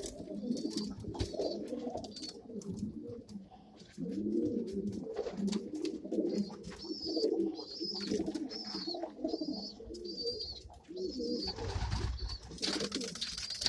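A flock of pigeons cooing in a loft: an overlapping murmur of low coos, with scattered clicks and scuffs. A high, thin repeated squeak joins about halfway, and there is a burst of rustling noise near the end.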